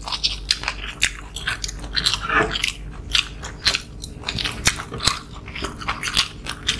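Two people eating: biting, chewing and crunching food, heard as a stream of irregular sharp clicks and wet mouth smacks several times a second.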